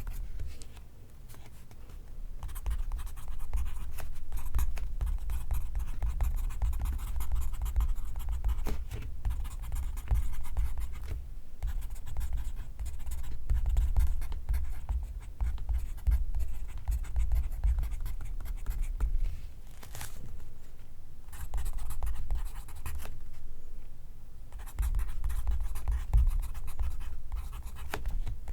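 Pencil writing on paper: continuous scratching strokes with short pauses, one about a second in and a few more later.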